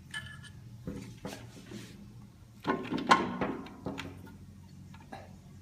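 Metal parts and tools of a gearbox being handled: scattered clinks and knocks, with a louder clatter a little before halfway, over a steady low hum.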